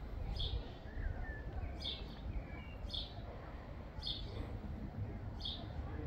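A bird giving five short, high chirps a little over a second apart, with a few fainter gliding whistled notes about one to two seconds in, over a steady low rumble.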